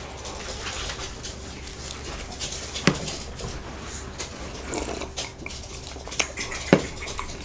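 Close-miked chewing of a soft, crumb-topped soboro bun, with scattered sharp mouth clicks. About four seconds in come sips of milk from a glass, then the glass knocks down on the wooden table near the end.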